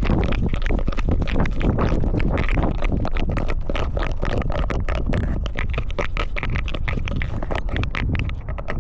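Collar-mounted camera jostling and rubbing against a cat's fur as the cat moves: a dense run of irregular scratchy clicks and rustles over a steady low rumble.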